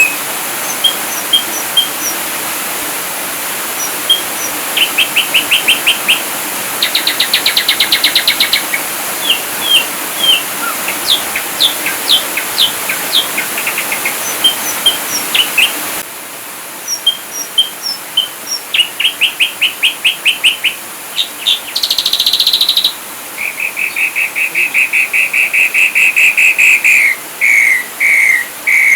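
Ashy drongo singing a varied, rapid-fire song: short clear whistles, quick repeated chirps and fast buzzy trills in quick succession, over a steady hiss. About halfway through, the background changes suddenly where the recording is spliced, and near the end long runs of repeated notes take over.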